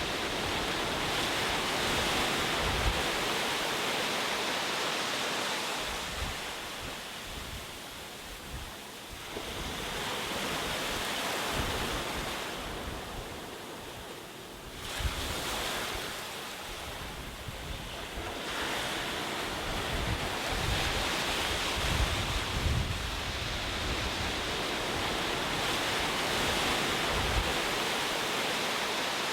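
Ocean waves breaking and washing on a shore, swelling and ebbing every several seconds, with a quieter lull between surges.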